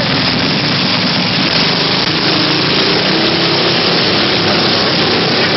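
Small single-cylinder mini bike engines running steadily under a constant rushing noise, with a faint engine hum in the background.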